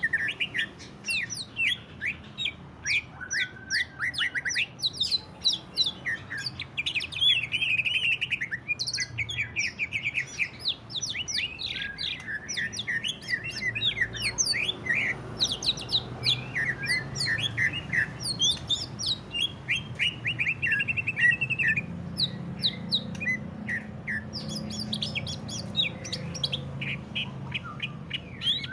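Green leafbird (cucak ijo) singing continuously in rapid bursts of sharp chirps and trills, the energetic 'ngentrok' song style kept birds are coaxed into.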